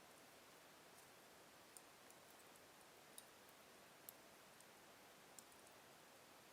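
Slow-burning wood fire in a fireplace, very faint: a handful of small, sharp crackles, about five, spaced a second or so apart over a soft hiss.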